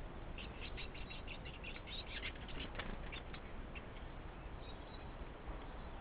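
A small bird calling: a quick run of short, high chirps, about five a second, lasting about three seconds and fading out around the middle.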